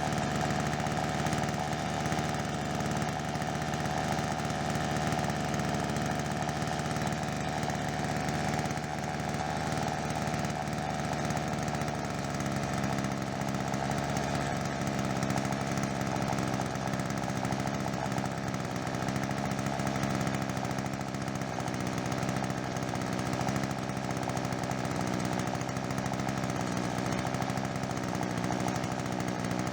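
Ryobi RBC30SBSA two-stroke strimmer engine running steadily after a carburettor clean and rebuild. Its note changes slightly about twelve seconds in.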